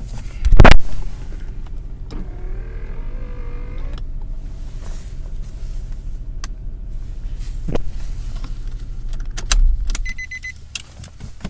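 Infiniti FX35's V6 idling, with a loud thump about half a second in and an electric window motor whining upward for about two seconds. About ten seconds in the engine is switched off, and a short run of electronic warning beeps sounds as it stops.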